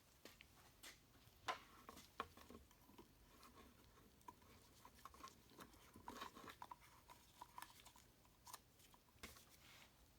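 Faint, irregular small clicks and rubbing from hands working oiled rubber gaskets onto an oil filter cartridge.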